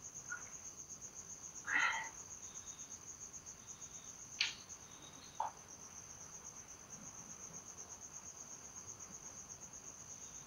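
Crickets chirping in a steady, evenly pulsing high trill, with a few faint brief clicks.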